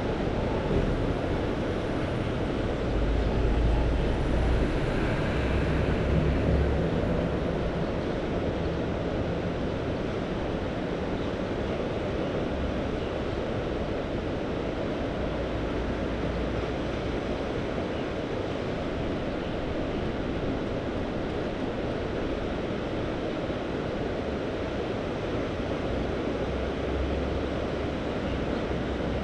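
Sea waves washing on the shore, a steady rush, with wind rumbling on the microphone a few seconds in and again near the end.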